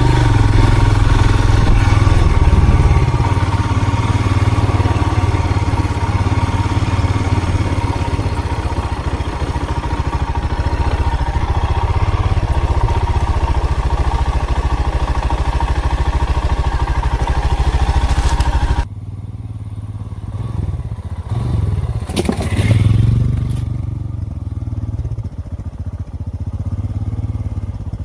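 Vehicle engine and road noise while driving, a steady rumble with a faint hum. About 19 seconds in the sound drops abruptly to a quieter, lower rumble.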